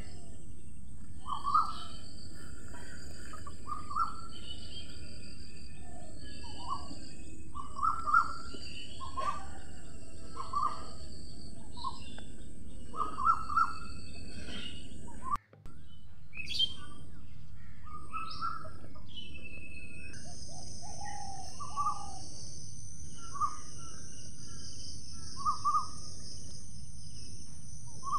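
Short bird calls, repeated every second or two, over a steady high-pitched drone that thickens about two-thirds of the way through.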